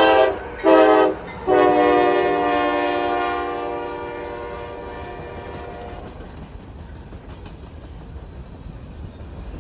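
Freight locomotive air horn on a passing grain train: the tail of one blast, a short blast about half a second in, then a long blast that fades out over several seconds. After the horn, the steady rumble and clatter of the train's cars rolling past.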